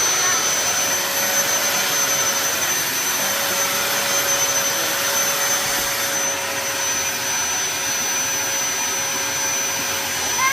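Vacuum cleaner running steadily, a constant rushing noise with a steady hum and a thin high whine.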